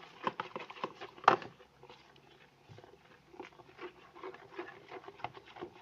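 Spoon stirring glue and borax water in a bowl, making irregular small clicks and knocks against the bowl, with one louder knock about a second in.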